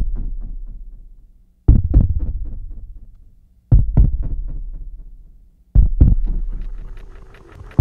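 Heartbeat sound effect: a heavy, low double thump about every two seconds, four times, each followed by a fluttering rumble that fades away.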